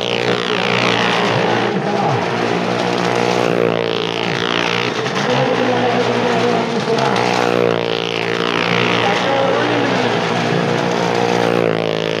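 Motorcycle engine running steadily, with a swell in its sound that comes back about every four seconds.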